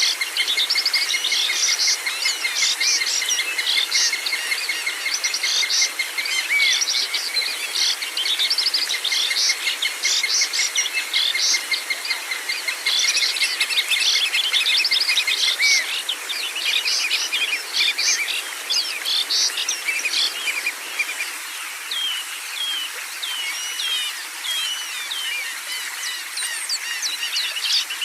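Many small songbirds chirping and trilling over one another in a dense chorus, with a steady, rapid insect trill underneath through the first half. The chorus thins out to scattered whistles and chirps in the last third.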